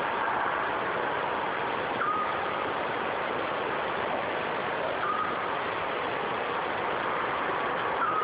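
Bird giving a single short whistled note, repeated about every three seconds, over a steady hiss of background noise. The title puts the voice down to either a bittern or a scops owl.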